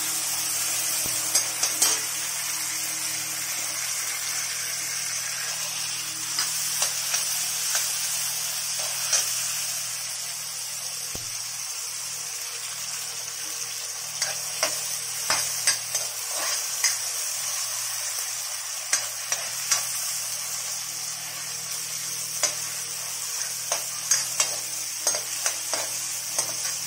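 Chopped onion and tomato sizzling in hot oil in a kadai, with a spatula scraping and knocking against the pan as it stirs. The knocks come more often in the second half.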